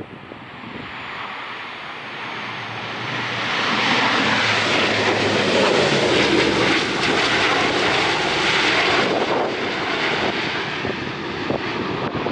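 Airliner passing close by, its engine noise swelling over about four seconds and staying loud for several seconds before easing slightly, with wind gusting on the microphone.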